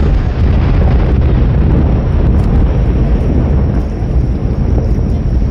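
Fireworks display: aerial shell bursts running together into a continuous low rumble, with no single sharp bang standing out.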